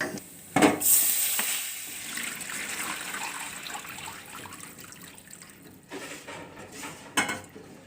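Chicken stock being poured into a hot pan of butter-fried garlic: a knock about half a second in, then pouring liquid and a loud hiss that slowly fades, with another knock near the end.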